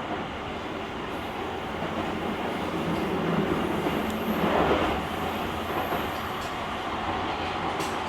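JR Kyushu 883-series electric limited express train running at speed, heard from inside the car's vestibule: a steady rumble of wheels on rail, swelling louder for a moment about four to five seconds in.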